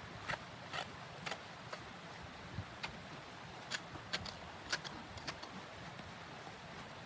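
A series of sharp clicks, about two a second at first and then more scattered, over a low steady background hum.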